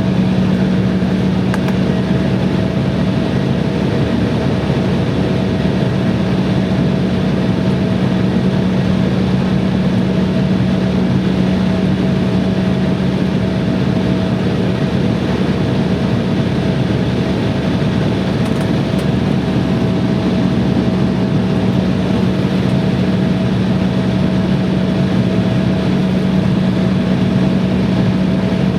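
Airliner cabin noise: a steady hum from the jet engines and air systems, with a strong low tone and a fainter higher one, unchanging throughout.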